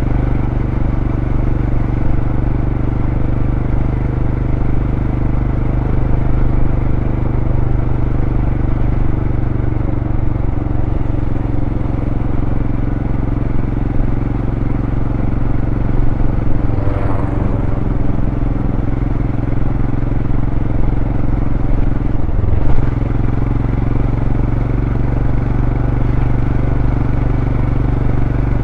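2023 Royal Enfield Scram 411's single-cylinder engine running through its stock exhaust while riding at a steady pace, with brief changes in the engine note a little past halfway and again later.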